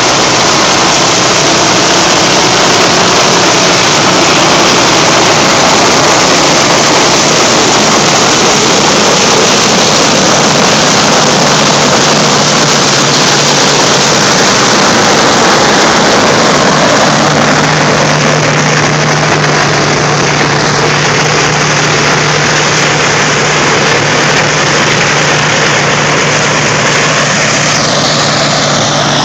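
Renault 754 tractor running steadily under load while working a two-row Zmaj corn picker, with a dense mechanical din over the engine hum. The hum drops in pitch about eleven seconds in and shifts again near seventeen seconds.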